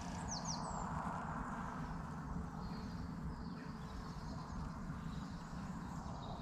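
Woodland ambience: a steady low background rumble with a few short bird chirps, the clearest just after the start.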